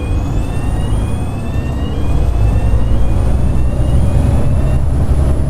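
Volvo B7TL bus's diesel engine under load, with a heavy low rumble that grows louder about two seconds in. Over it runs a loud high whine, the 'hoover' sound, made of several tones rising slowly in pitch.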